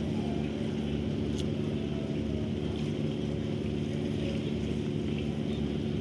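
A vessel's engine running with a steady drone, several even tones held low down and no change in speed.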